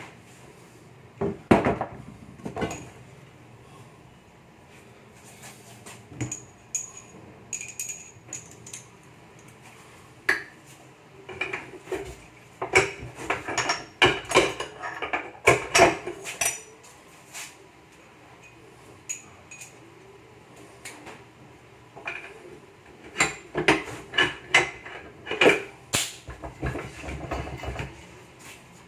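Metal tools and engine parts clinking and knocking in irregular clusters while an engine is being taken apart, busiest in the middle and near the end.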